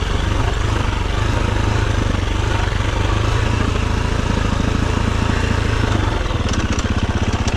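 Enduro dirt bike engine running steadily under throttle as it is ridden. About six seconds in, the deep low rumble drops away as the throttle eases.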